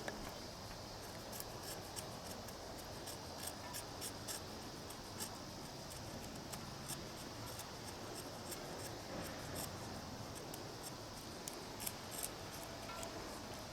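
Dry kindling giving light, irregular crackles and small snaps, close by, over a faint steady background hiss.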